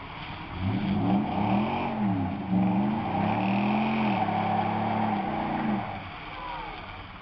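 A truck engine revving hard in about four rising-and-falling surges, then easing back toward idle near the end.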